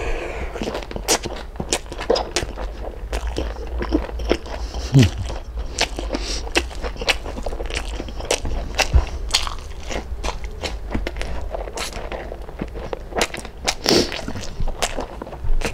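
Close-miked chewing of crispy lechon kawali (deep-fried pork belly): a rapid, continuous crunching and crackling, with the sharpest bites about five, nine and fourteen seconds in, over a steady low hum.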